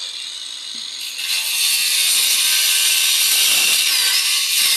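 A tool cutting or sanding wood for an airgun stock, a loud steady high-pitched rasping that starts about a second in.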